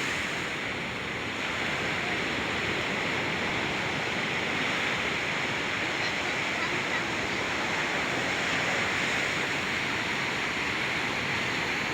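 Ocean surf washing onto a beach, a steady rushing noise with no breaks.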